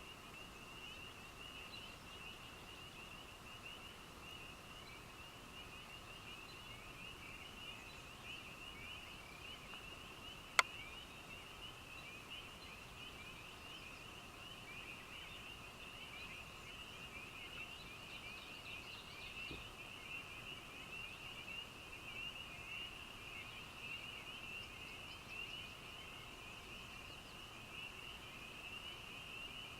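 A chorus of frogs at night: many short, high-pitched calls overlapping in a dense, continuous chorus, with a fainter lower-pitched chorus beneath. A single sharp click about ten seconds in.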